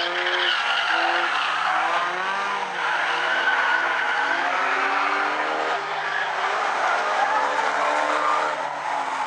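Several race car engines running together over the track noise, their pitches rising and falling as the cars rev through the turns of the figure-8 course.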